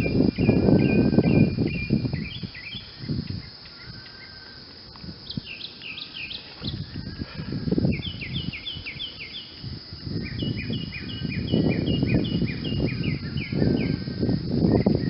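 Songbirds singing in runs of quick repeated chirps, over a low rumbling noise that is strongest at the start and over the last few seconds.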